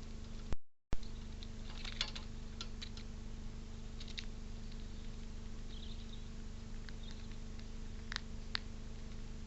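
Scattered light clicks and scratches, typical of a squirrel's claws and teeth working on a bird feeder, over a steady low electrical hum. The sound cuts out completely for a moment about half a second in.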